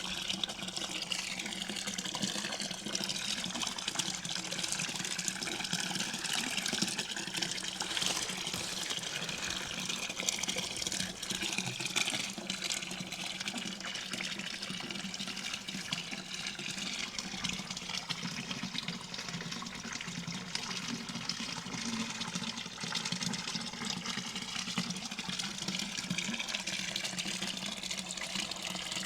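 Running water, a steady gushing flow that goes on without a break.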